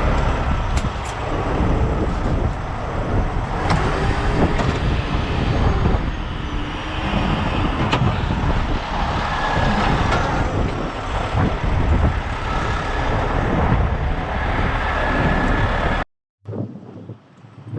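Heavy diesel truck engine running steadily, with a few sharp metal clanks. The sound cuts out suddenly near the end and comes back quieter.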